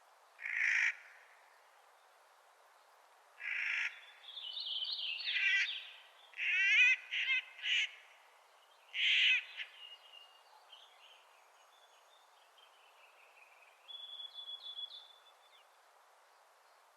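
Clark's nutcracker calling with harsh, grating calls: one about half a second in, a run of calls from about three and a half to eight seconds, and another near nine seconds. Fainter, thinner notes follow in the last few seconds.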